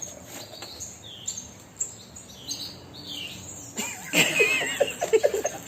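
Parrot chirping with short, high calls. About four seconds in comes a louder burst of quick rapid pattering with a wavering call over it.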